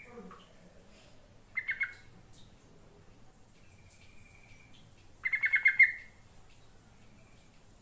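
Yellow-vented bulbul calling: two short bursts of rapid, bubbly chattering notes a few seconds apart, the second one longer, with a faint thin whistle between them.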